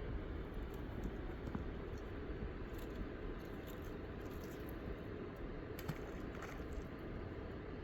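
Steady low rushing noise, such as flowing water or wind, with scattered faint ticks and clicks.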